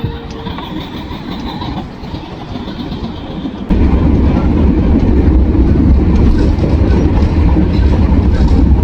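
Train running on the rails, a steady rumble with wheel clatter that becomes suddenly much louder a little under four seconds in.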